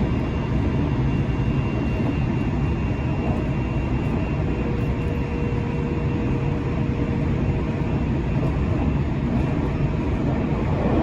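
Steady running noise of a JR Central 373 series electric train, heard from inside the passenger car: a deep rumble with a faint steady whine over it.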